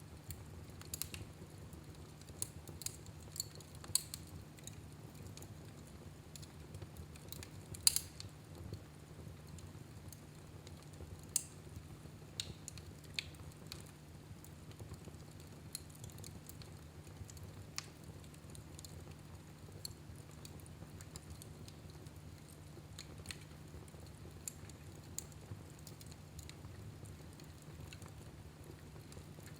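Wood fire burning in a fireplace, crackling with irregular sharp pops, the loudest pop about eight seconds in, over a steady low hum.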